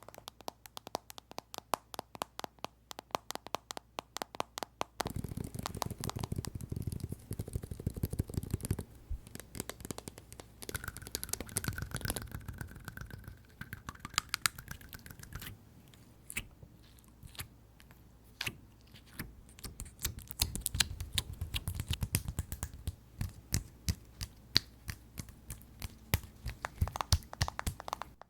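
Fast fingernail tapping and scratching on a series of different objects, each lasting a few seconds. The tapping changes from crisp, rapid clicks to duller, deeper taps at about five seconds, and shifts again several more times.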